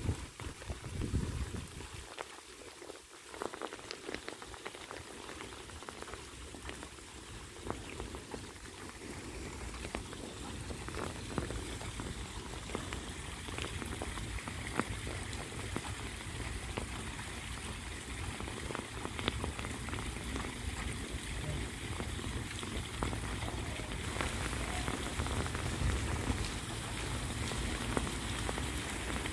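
Steady rain falling on open water, a dense hiss of countless drop hits. It grows louder over the second half.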